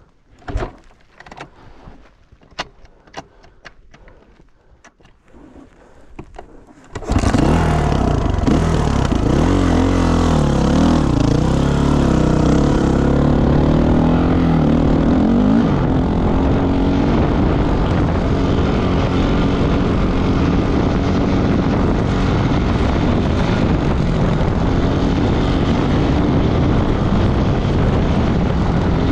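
A few scattered clicks and knocks, then about seven seconds in an off-road motorcycle engine comes in suddenly and runs loud, its pitch wavering at first before it settles into a steady, noisy drone.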